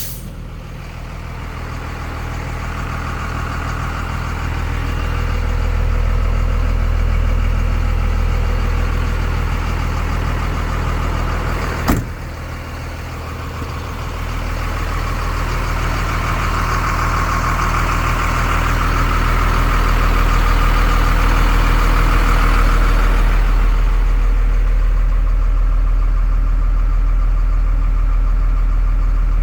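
A 5.9 Cummins diesel engine running at a steady idle, its loudness slowly swelling and easing, with a single sharp click about twelve seconds in.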